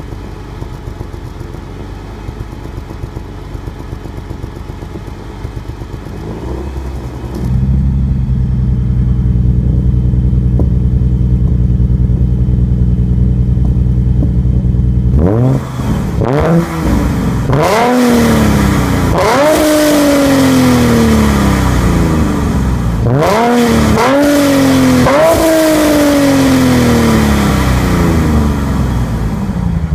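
Mustang's 3.7 L Cyclone V6 through a full aftermarket exhaust with XForce Varex valved mufflers, idling with a deep note that jumps louder about seven seconds in. From about halfway it is blipped repeatedly in two quick groups of revs, each rising sharply and falling back to idle.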